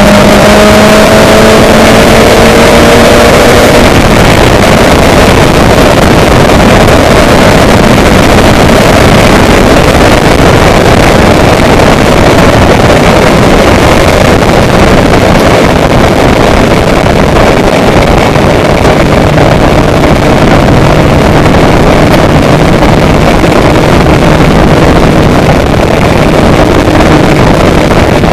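Loud, steady engine noise under a rushing, wind-like hiss, with a faint engine tone rising slightly in pitch in the first few seconds.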